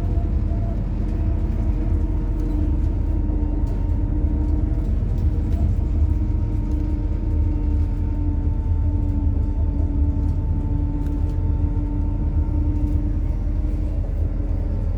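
MAZ-103 city bus running on compressed methane, heard from inside the cabin while driving: a steady low engine and road rumble with a faint engine tone that drifts slightly in pitch, and occasional light rattles.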